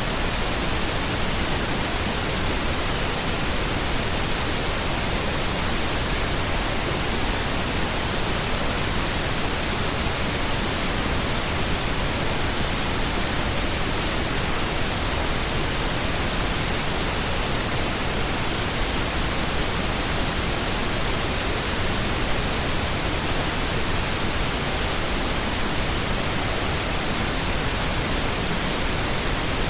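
Steady pink noise: an even, unchanging hiss across the whole range, fuller in the lows than white noise.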